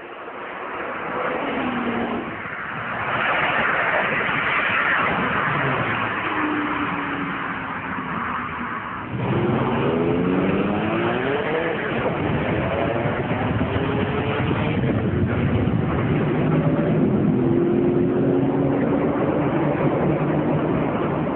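High-performance car engines accelerating hard, the engine note climbing and falling back at each gear change, with a sharp surge about nine seconds in.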